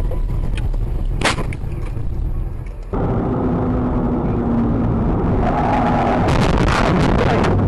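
Car driving noise with a low rumble and one sharp crack about a second in. About three seconds in it changes abruptly to louder, rougher driving noise with a steady hum. Near the end comes a rapid run of sharp knocks and cracks.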